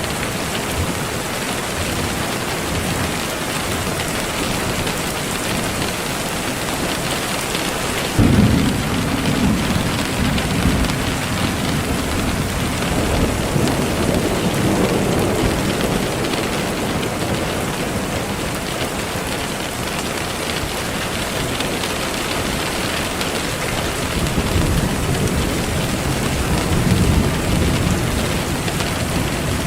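Steady rain with thunder: a sudden clap about eight seconds in that rolls on as a low rumble for several seconds, and another rumble swelling near the end.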